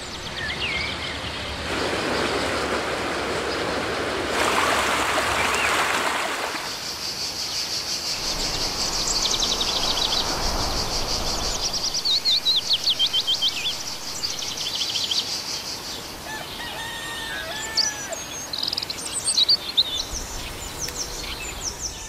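Several songbirds chirping and singing, with fast high trills in the middle and a run of varied calls near the end. In the first six seconds a rushing noise swells and fades beneath them.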